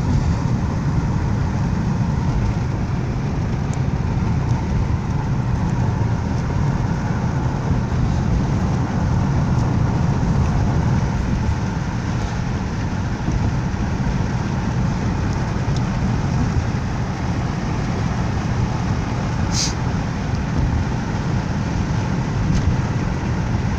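Steady road and engine noise of a moving car, heard from inside the cabin as an even low rumble, with one brief click near the end.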